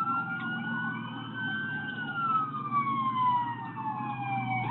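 Police car siren on a slow wail, its pitch climbing to a peak about two seconds in, falling slowly, then sweeping up sharply again near the end, over steady engine and road noise of the pursuing car.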